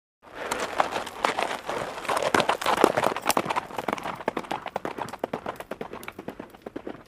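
Hoofbeats of a herd of hoofed animals galloping: many rapid, overlapping hoof strikes that start suddenly and slowly fade away after the middle.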